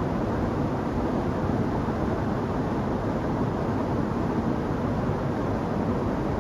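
Waterfall splashing down, a steady deep rushing of water.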